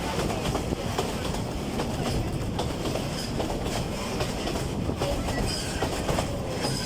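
Narrow-gauge forest railway train running along the line: a steady low rumble with irregular clicks from the wheels over the rail joints.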